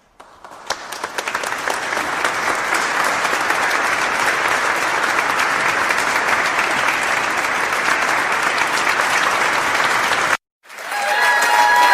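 Crowd applause sound effect: a large audience clapping, building up over the first couple of seconds, then steady, and cut off abruptly about ten seconds in. After a brief gap, another sound effect with steady held tones starts just before the end.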